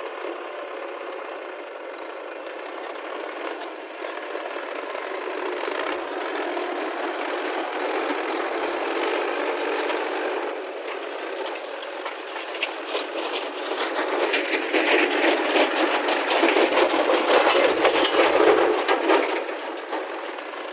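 JCB 3DX backhoe loader's diesel engine running under load, with rattling and clattering that grows louder from about two-thirds of the way in and eases off just before the end.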